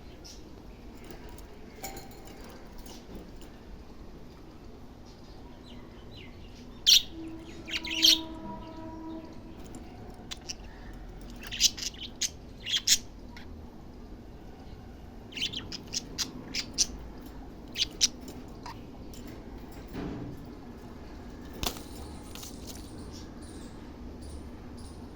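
Pet budgerigars chirping in short, sharp high calls that come in scattered clusters with quieter gaps between.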